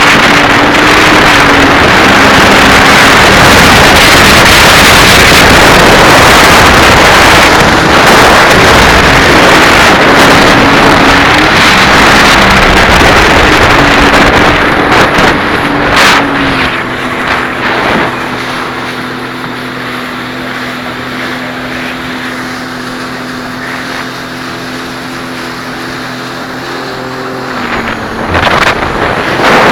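Sea-Doo jet ski engine running fast, with heavy wind noise on the microphone and rushing water. About halfway through it slows to a steady, quieter low-speed run. Near the end it speeds up again.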